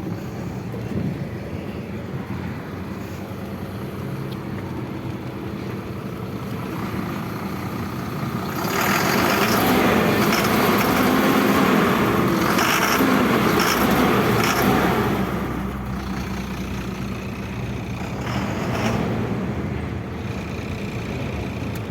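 Ashok Leyland 1920HH truck's diesel engine idling. About eight seconds in it runs louder and faster for about six seconds, then settles back to idle.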